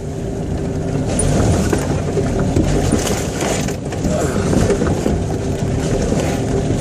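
Jeep engine running steadily under load as it drives up a rough, rutted dirt trail, heard from inside the cab.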